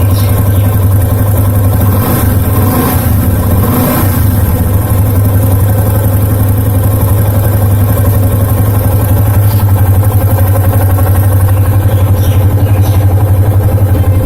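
Yamaha FZ25's single-cylinder engine idling steadily on a newly fitted NGK iridium spark plug.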